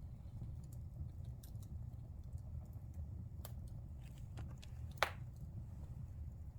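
Wood fire burning in a fireplace: a steady low rumble of the flames with scattered small crackles, and one loud pop from the burning wood about five seconds in.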